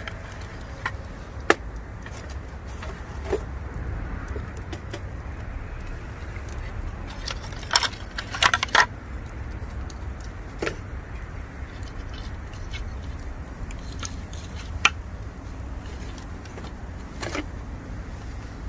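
Bamboo campfire burning, with scattered sharp crackles and pops. A quick cluster of several pops comes about eight seconds in, over a steady low rumble.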